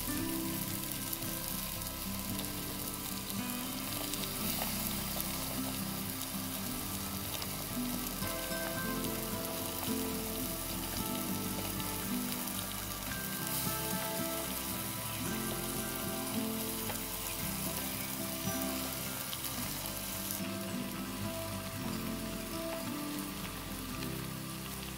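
Spicy instant noodles, kimchi and seafood sizzling steadily on a hot foil tray while chopsticks toss them.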